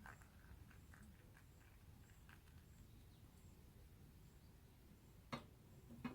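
Near silence: quiet background with a few faint light taps, and two sharper clicks near the end.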